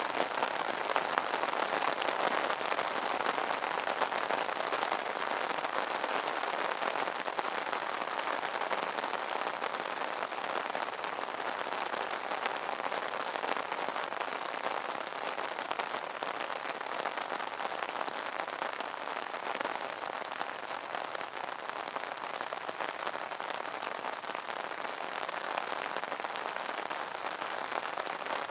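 Rain pattering steadily on an umbrella canopy, a dense even patter of many fine drops.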